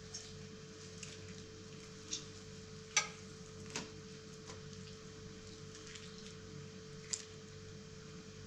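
A few scattered light clicks and taps of cooking utensils, the sharpest about three seconds in, over a steady low hum.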